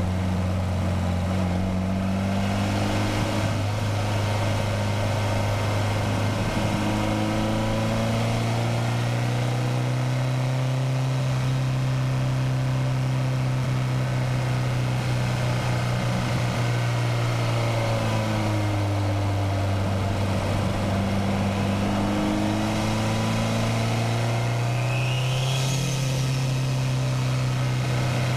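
Nissan SR20DET turbocharged inline-four in a Mazda Miata running under steady load, its pitch rising and falling gently as the revs change. A brief high whistle rises and falls near the end.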